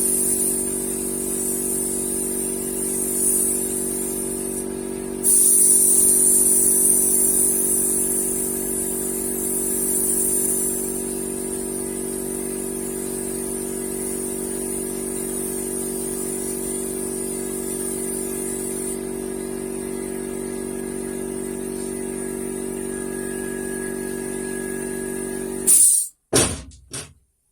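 Paint-spraying equipment running: a steady motor hum under the high hiss of the spray, which breaks off briefly about five seconds in and comes back louder. The motor cuts off suddenly near the end, followed by a few knocks.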